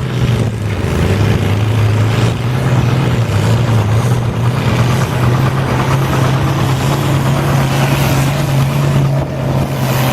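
International Harvester 966 tractor engine running hard at a steady pitch under heavy load, pulling a weight-transfer sled, with a brief dip about nine seconds in.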